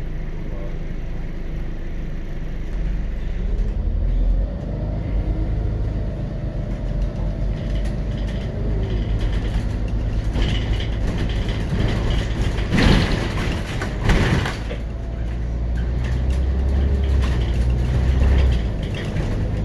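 Scania DC9.01 diesel engine of a Scania CN94UB Omnicity city bus, heard from inside the bus as a steady low rumble that grows louder a few seconds in and again near the end. Two short hisses of compressed air come about two-thirds of the way through.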